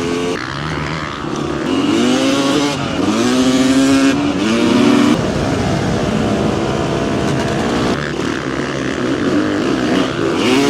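Dirt bike engine revving under way, its pitch climbing and dropping a few times as it accelerates and shifts, then running more steadily.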